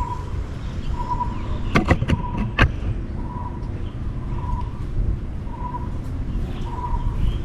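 A bird repeating one short note about once a second over a steady low rumble, with a quick run of sharp clicks about two seconds in.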